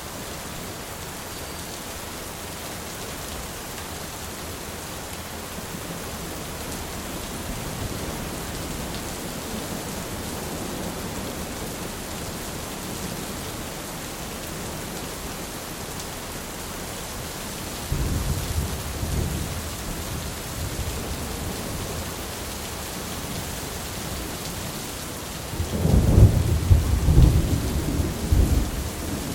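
Steady rain with rolling thunder: a low rumble breaks in suddenly about two-thirds of the way through, and a louder, rolling peal comes near the end.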